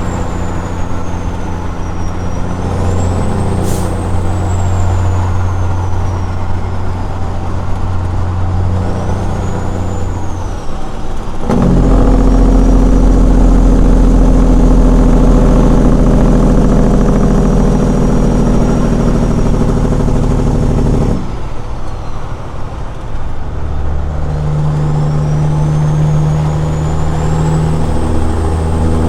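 Straight-piped Caterpillar 6NZ diesel of a Peterbilt truck running under way, a steady deep drone. About a third of the way in it turns much louder and deeper for some ten seconds, then drops back and carries on steady, with a thin high whine rising and falling above it.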